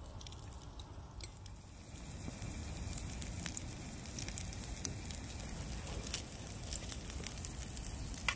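Wild-game burger patty frying in a small steel pan over a camp stove flame: steady sizzling with scattered spitting crackles of fat, a little louder from about two seconds in.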